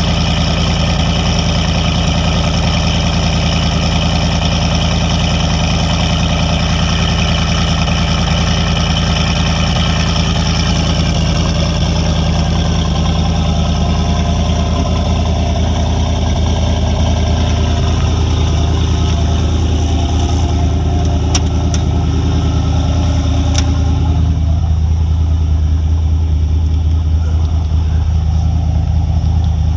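Turbocharged Gen 3 4.8 L LS V8 idling steadily on E85 soon after a cold start in freezing weather. Its higher-pitched sound fades through the second half, leaving a steady low rumble, with a few sharp clicks just past the middle.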